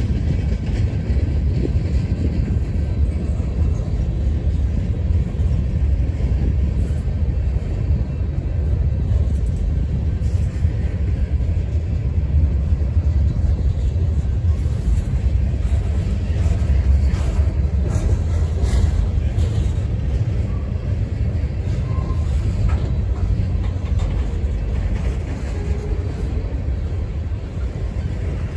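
Freight cars of a long CSX train rolling past close by: open-top gondolas, then a tank car and covered hoppers. Steel wheels on the rails make a steady low rumble, with occasional clicks.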